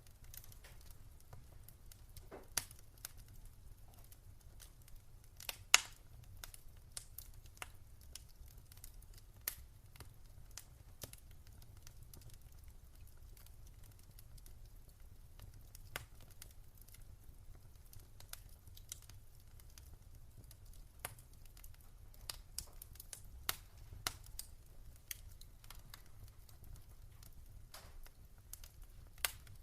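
Wood fire crackling in a fireplace: sharp, irregular pops and ticks, a few of them louder, over a faint low rumble.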